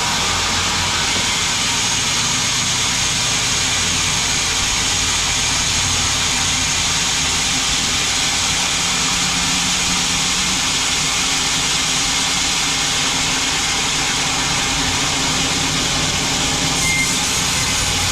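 Sawmill bandsaw running steadily, a constant machine drone with a hiss from the blade.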